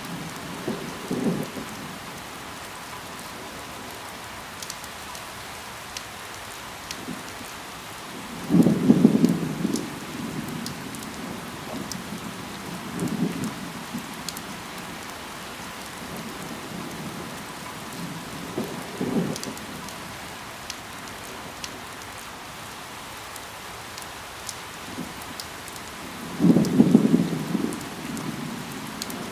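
Steady rain falling, with scattered sharp drop ticks. Short low rumbles come through every few seconds, the two loudest about nine seconds in and near the end.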